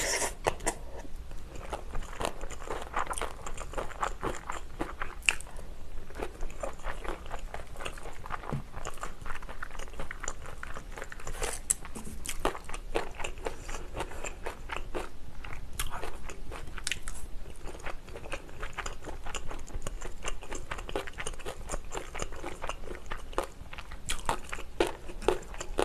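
Close-up chewing and crunching of a mouthful of rice and Korean side dishes, with many short crisp crunches and wet mouth sounds.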